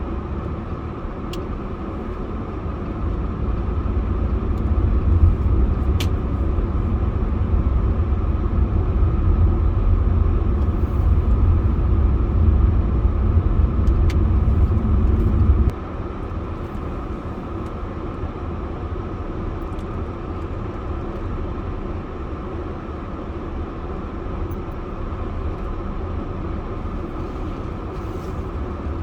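Car driving: a steady low rumble of road and engine noise. It swells for the first half, then drops suddenly to a quieter, even rumble about halfway through.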